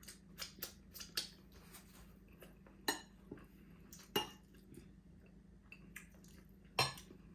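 Eating utensils clinking and tapping against a dish in a scatter of light, irregular knocks, with three sharper clinks about three seconds in, about four seconds in and near the end.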